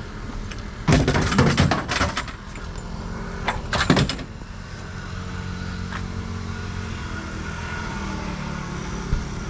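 Vehicle running with a steady low rumble, broken twice by loud rattling clatter, about a second in and again around four seconds in.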